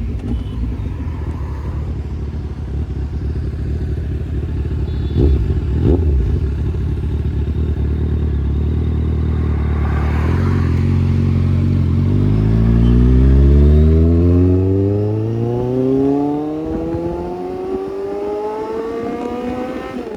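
Kawasaki Z800's inline-four through a loud Austin Racing aftermarket exhaust, rumbling at low revs with two sharp pops around five and six seconds in. From about twelve seconds it accelerates, the engine note rising steadily.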